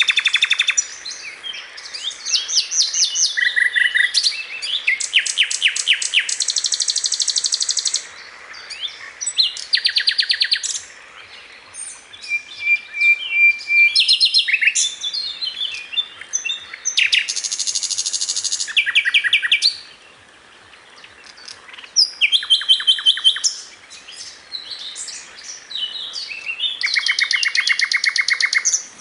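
Recorded songs of several small songbirds, the mixed tutor recording ('masteran') used to teach caged birds. Rapid trills of evenly repeated notes and short chattering phrases follow one another, changing pattern every second or two, with a few brief pauses.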